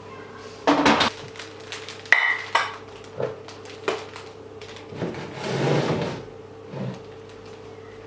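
Kitchen containers and dishes being handled and set down while a fridge is emptied and cleaned: a clatter about a second in, a short ringing clink of glass or crockery just after two seconds, a few light knocks, and a longer rustle or scrape near the six-second mark, over a steady faint hum.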